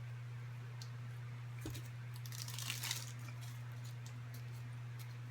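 Brief crinkling and crunching about two to three seconds in, after a soft thump, over a steady low hum.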